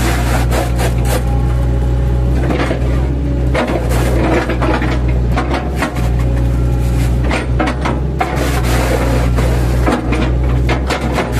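Mini excavator's diesel engine running steadily under load, with repeated irregular cracking and scraping of wood as its bucket chops up a felled oil palm trunk.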